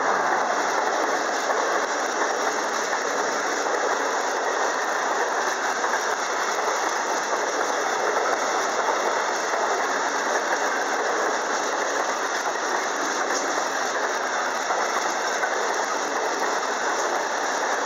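Railway wagons rolling past on the track: a steady, loud noise of wheels running over the rails that holds unchanged throughout.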